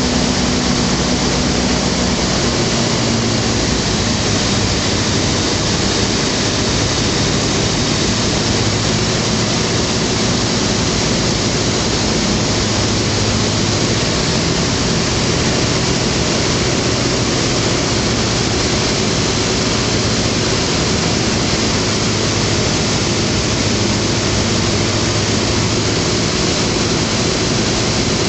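Skyranger microlight in flight, its Rotax 912 four-cylinder engine and propeller running under a steady heavy rush of wind. About three seconds in, the engine note drops and then holds steady, with power reduced for the landing approach.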